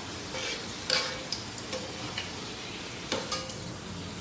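Chicken pakoda sizzling in hot oil in a kadai, with a few sharp clicks of a spoon against the pan as the fried pieces are lifted out.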